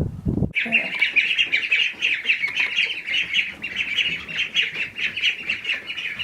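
A dense chorus of many small birds chirping at once, dozens of quick, overlapping high notes, starting abruptly about half a second in.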